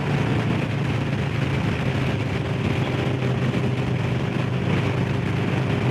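Harley-Davidson Low Rider S with its 117 cubic-inch Milwaukee-Eight V-twin running at a steady cruise, with wind and road noise.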